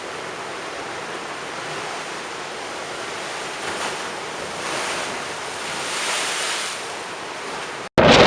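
Storm waves breaking and surging, a steady rush that swells several times, loudest around six seconds in. Near the end it cuts suddenly to much louder gusty wind buffeting the microphone.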